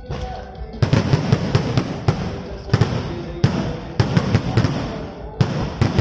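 Fireworks going off in rapid runs of sharp bangs and crackles, starting about a second in, with short lulls between the runs.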